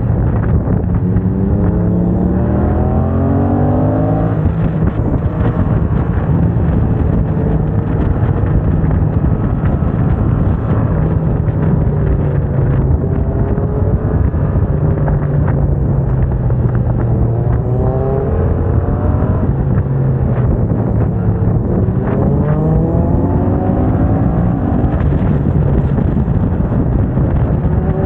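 Yamaha MT-07's parallel-twin engine breathing through a MIVV aftermarket exhaust, revving up and down under riding load. It pulls up in short rising sweeps, broken where the quickshifter cuts in for clutchless upshifts, and eases off in between.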